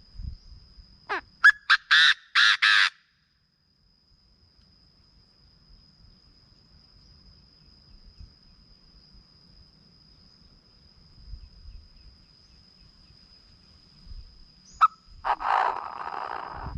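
Chinese francolin calling. About a second in, a short falling note leads into a run of four loud, harsh notes, each longer than the last. Near the end comes a sharp single note, then a rougher, drawn-out burst of calling. A thin steady high-pitched tone runs underneath.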